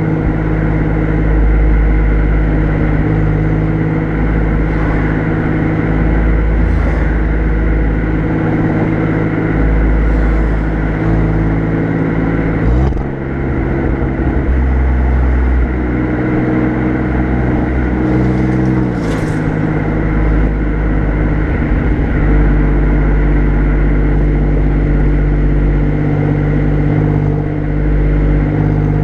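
Alfa Romeo Giulia Quadrifoglio's twin-turbo V6 exhaust at the rear bumper, running steadily at low revs while cruising gently. The note rises about 13 seconds in and drops back about 19 seconds in.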